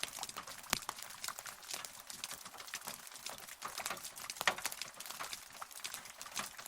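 Rain falling, heard as a steady patter of many separate drops ticking at irregular intervals, with no thunder.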